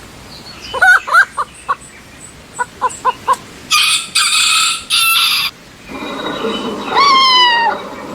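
Chickens clucking in short calls, then a loud, harsh, drawn-out fowl call about halfway through. Near the end a cat meows once.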